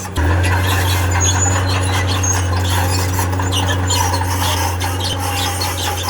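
Steel crawler tracks of a tracked earthmoving machine squealing and grinding over the steady drone of its diesel engine. The engine drone steps up sharply just after the start and then holds steady.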